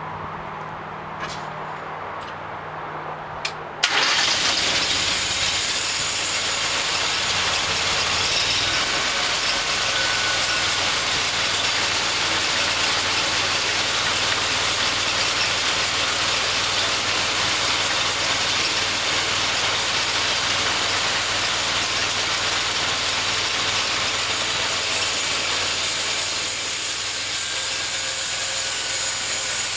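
Engine of a homemade bandsaw mill idling with a few clicks, then about four seconds in a sharp click and a sudden jump to a loud, steady run as the band blade is set going.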